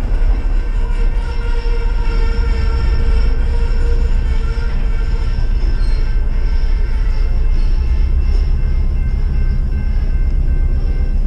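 Passenger train rolling past close by: a loud, steady low rumble of the cars going by, with a steady whine above it.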